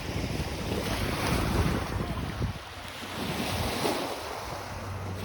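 Lake waves washing onto a rocky shore, with wind rumbling on the microphone; the wind eases briefly about halfway through.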